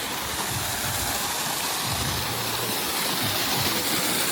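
Steady rushing of a large waterfall crashing into a pool, growing a little louder toward the end.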